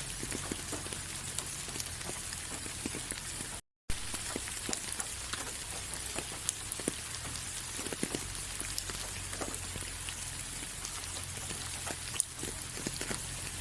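Steady rain with many individual drops ticking close by. The sound cuts out completely for a split second about four seconds in, then carries on.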